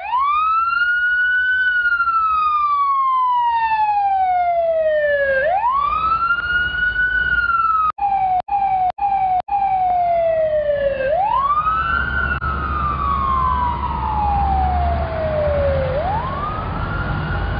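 Fire engine siren wailing: each wail climbs quickly, then glides slowly down over about four seconds, over and over. A low engine rumble runs under the later wails, and the sound cuts out briefly four times near the middle.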